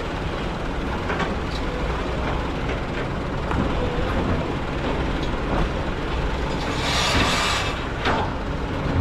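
Kobelco excavator's diesel engine running steadily under digging work, with scattered knocks and clanks from the bucket and machine. A short hissing rush comes about seven seconds in.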